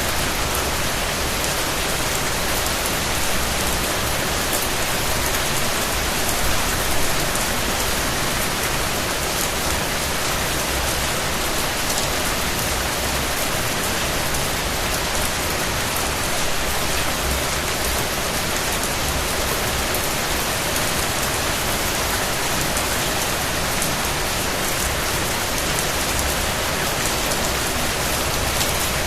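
Steady rain falling on a surface, a dense even hiss with fine drop patter.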